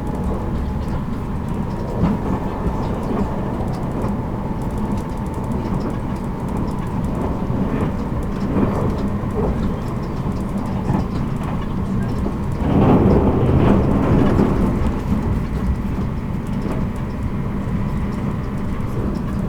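Running noise inside a JR Kyushu 783 series electric train's motor car at speed: a steady rumble from the wheels and track with a faint steady tone above it. The noise swells louder for a couple of seconds about two-thirds of the way through.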